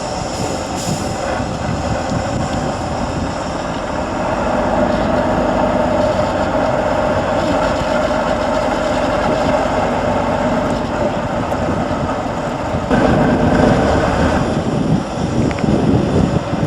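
Tatra 813 8x8 truck's diesel engine working under load on an off-road trial course. It gets louder about four seconds in and again near the end.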